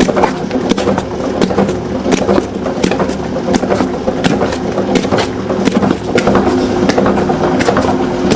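A motorised machine running with a steady hum and rapid, irregular clicking and knocking.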